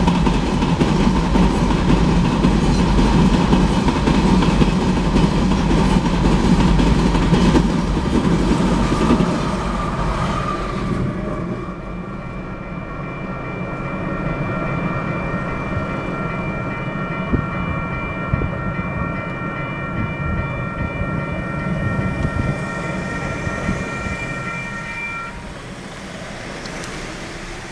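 Freight train of covered hopper cars rolling past a grade crossing, with heavy rumble and wheel clatter on the rails that falls away about eleven seconds in as the last car clears. The crossing bell then rings on alone in even pulses, stopping a couple of seconds before the end as the gates go up.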